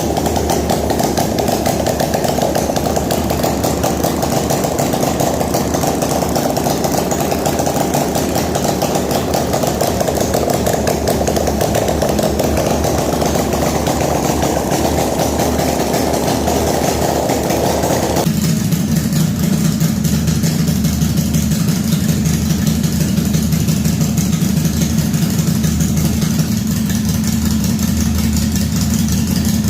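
An engine running steadily. About eighteen seconds in, the sound changes suddenly to a deeper, lower note.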